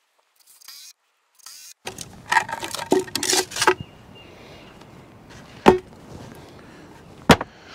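Lumber and tools being handled during deck framing: a spell of rustling and scraping, then two sharp knocks of wood set down or struck.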